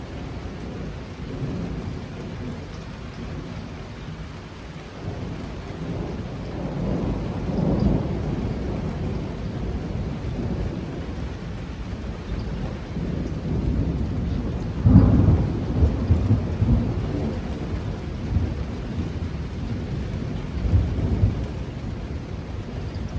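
Thunderstorm: steady heavy rain with rolling thunder, swelling about a third of the way in and peaking in a loud clap and long rumble about halfway through, with more rumbles near the end.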